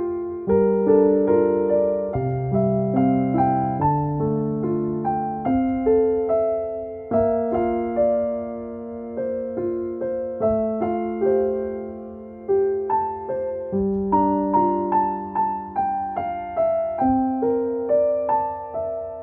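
Slow, gentle solo piano music, notes struck one after another and left to ring out.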